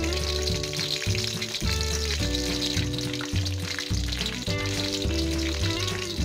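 Minced garlic sizzling steadily in hot oil in a wok, under background music.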